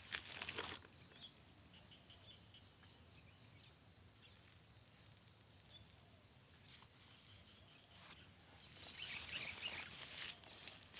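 Faint, steady high-pitched insect drone, with brief rustling, like footsteps in vegetation, at the start and again about nine seconds in.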